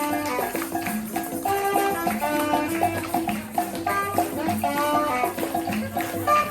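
Live instrumental dance music in a Congolese style: a pitched instrument plays quick repeating melodic runs over a steady beat, with a shaker rattling on top.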